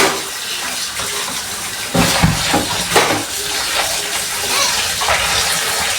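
Water running from a kitchen tap and splashing over a small broiler chicken being washed by hand. Two or three short knocks come about two and three seconds in.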